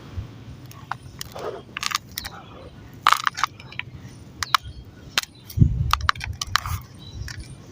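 Dried sand-and-cement clumps crumbling and cracking apart: a run of sharp crackles and short gritty crunches, with one heavier thud about five and a half seconds in.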